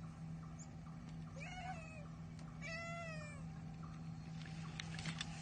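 A cat meowing twice, each meow rising and then falling in pitch, over a steady low hum.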